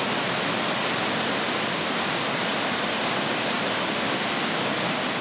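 Steady rushing of a waterfall, falling water at an even level.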